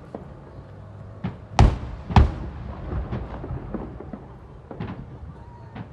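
Fireworks display: two loud booms of bursting shells about a second and a half in, half a second apart, among scattered weaker pops and bangs.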